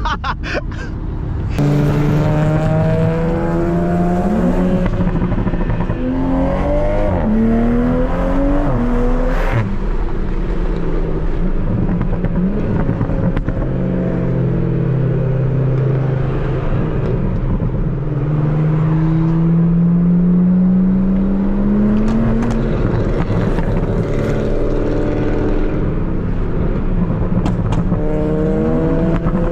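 Tuned Toyota Supra MK5's turbocharged B58 inline-six at full throttle, its pitch climbing through the revs and dropping back at each upshift, several times over. The pull starts about a second and a half in with a sudden jump in loudness.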